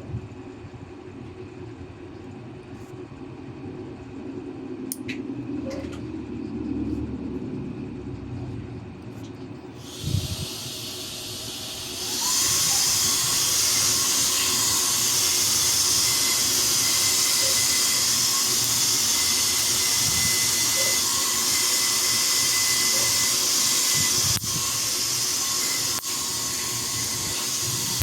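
A motorized nail file running and grinding on a thick toenail: a steady high hiss with a faint whine. It starts about a third of the way in, after a knock, and runs on steadily.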